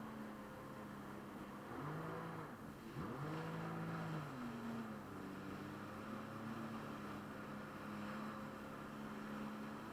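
Jet ski engine running. Its pitch drops and changes between about two and four and a half seconds in as the throttle is eased and reopened, then it runs steadily again.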